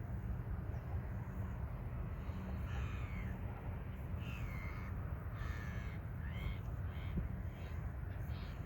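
Crows cawing: a series of short, harsh calls, several in quick succession from about two and a half seconds in, over a steady low rumble.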